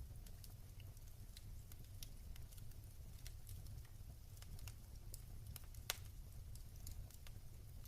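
Wood fire in a fireplace crackling, with irregular small pops and one sharper, louder pop about six seconds in, over a steady low rumble.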